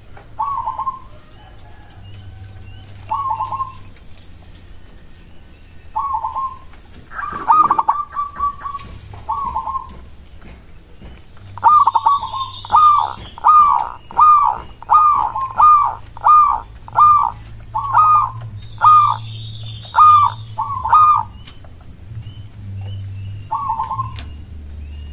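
Zebra dove (perkutut) cooing: a few single coos spaced a few seconds apart, then a fast run of about a dozen staccato coos at roughly two a second, over a low steady hum.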